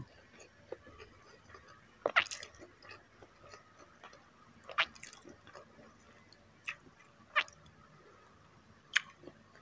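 A person chewing a mouthful of rice and soft braised pork close to the microphone, with about five sharp wet mouth smacks spread a second or two apart.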